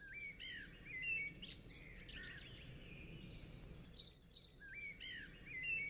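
Faint birdsong: a songbird's quick phrase of chirps and whistles, heard near the start and again, almost the same, near the end.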